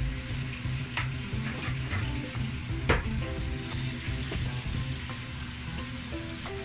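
Pieces of poultry frying and sizzling in a stainless steel pot with garlic and aromatics, stirred with a wooden spoon, which knocks against the pot about a second in and again near the three-second mark.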